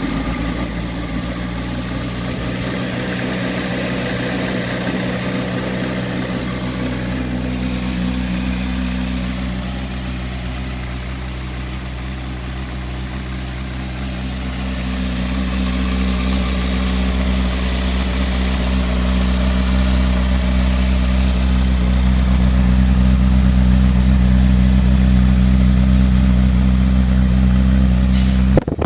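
Honda CBR600RR inline-four engine idling steadily just after starting, growing somewhat louder about halfway through and then holding level.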